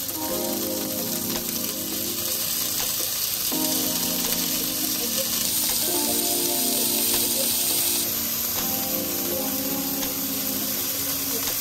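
Skewered shrimp sizzling steadily as they fry in an oiled grill pan, with background music playing over it.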